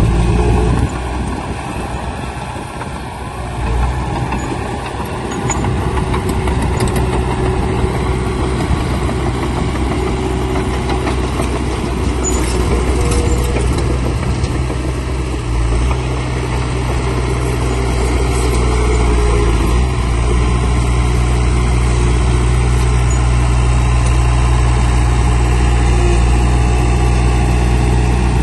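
Heavy diesel engine of earthmoving equipment running with a steady low drone. It dips a few seconds in, then grows louder past the middle and holds steady.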